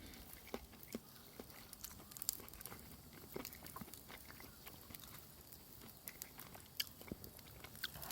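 Faint chewing and biting of food, with scattered small clicks and crunches.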